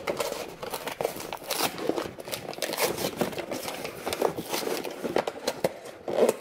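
Plastic packaging crinkling and rustling in irregular crackles as a shock absorber service kit is opened and its parts handled.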